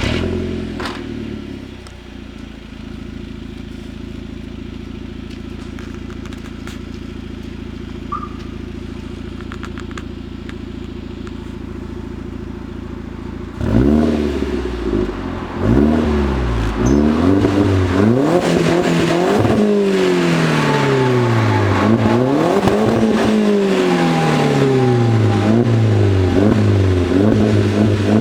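Skoda Octavia Tour 1.8T's turbocharged four-cylinder engine heard through a Rud aftermarket exhaust. It settles from a fast idle just after starting and idles steadily. From about halfway it is revved again and again, the pitch rising and falling with each blip of the throttle.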